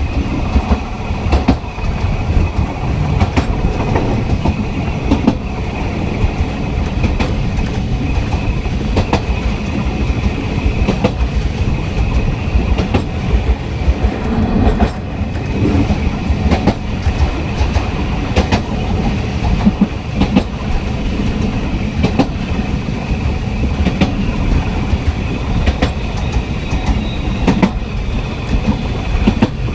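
Tren de Sóller narrow-gauge train running along the track, heard from the last car: a steady rumble and rattle of the carriage, with irregular clicks of the wheels over the rails and a thin, steady high whine.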